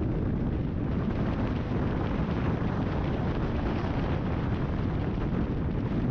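Heavy wind buffeting a GoPro microphone on a moving Kawasaki ZX-10R sportbike: a steady low rumble of rushing air at riding speed, with no distinct engine note standing out.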